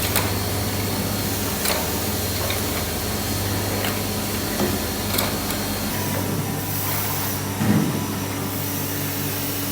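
A machine running with a steady hum, with a few sharp knocks or clicks spread through.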